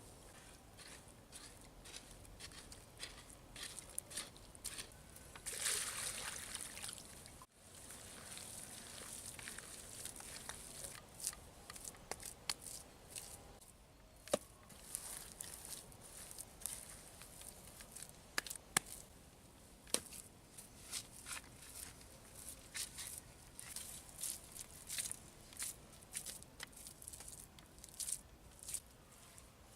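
Hands working wet clay and water: soft wet squelching with many short scattered clicks and taps. A brief dropout about seven and a half seconds in.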